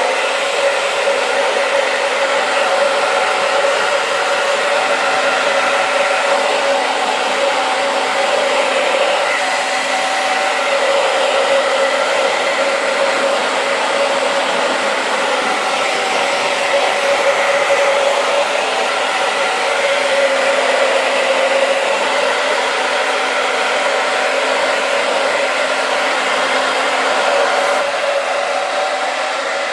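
Hair dryer switching on and running steadily, a loud even blowing with a steady whine in it.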